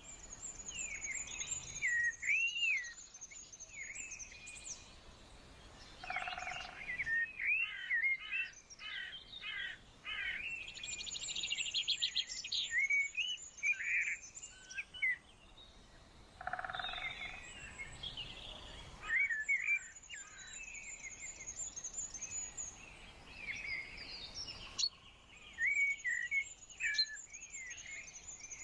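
Several songbirds singing, with varied chirps and whistled phrases. A high, thin trill comes back every several seconds, and a lower call sounds twice.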